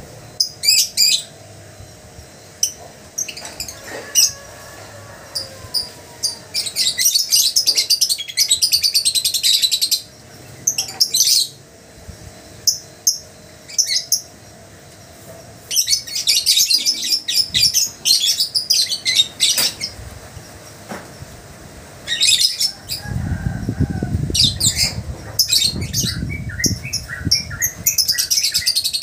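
Lovebirds chirping in rapid high-pitched chattering bursts, some a couple of seconds long, with short pauses between them.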